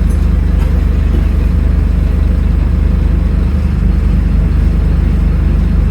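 Scania N310UA articulated city bus engine running with a steady low drone.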